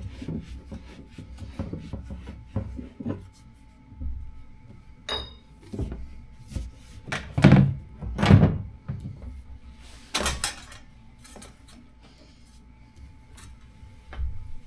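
Hands-on workshop noises while parts are fitted to a skid steer: scattered knocks, clunks and scrapes, with two loud thumps about halfway through and a sharp clatter shortly after.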